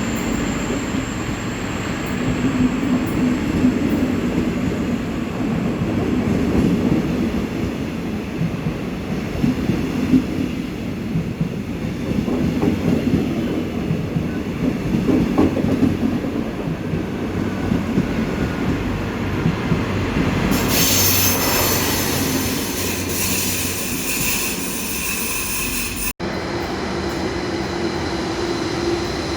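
A train running on the rails with a continuous rumble. Around two-thirds of the way through, high metallic wheel squeal joins in for several seconds, and then the sound cuts abruptly to a steadier train sound with a held tone.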